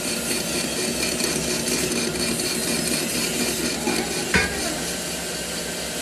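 Steady din of factory machinery with a hum of faint tones, and one sharp knock about four and a half seconds in.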